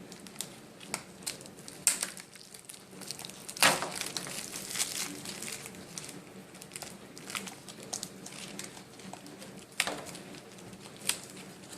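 Plastic wrapping of a Shopkins surprise basket crinkling and crackling as it is pulled open by hand, in irregular sharp crackles, the loudest about three and a half seconds in.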